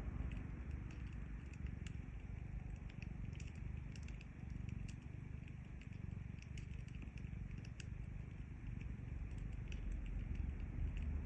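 A cat purring steadily, close up, as a low pulsing rumble, with a wood fire crackling in small scattered pops.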